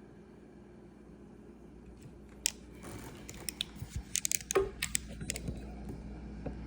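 ResMed AirSense 10 CPAP machine with a replacement blower motor, running with a steady low hum. From about two and a half seconds in, a run of sharp clicks and crackles sits over the hum.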